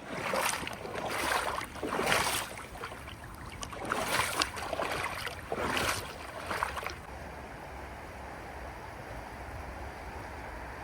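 Creek water running, with about six louder, brief rushing surges in the first seven seconds, then a steady flow.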